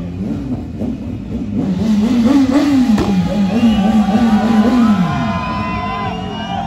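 BMW S1000R's inline-four engine revving and held high, the revs wavering up and down about two seconds in and dropping off near five seconds. Loud music plays over it.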